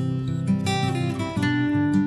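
Acoustic guitar playing, its notes and chords ringing on, with new chords struck about half a second in and again near the end.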